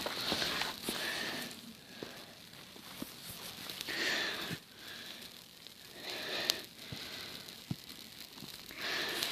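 Small campfire burning, with scattered sharp crackles and pops, under recurring swells of rushing noise.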